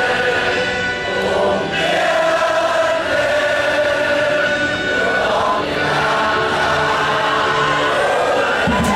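Many voices singing together in a choir-like chant on long held notes. A rougher, noisier sound comes in near the end.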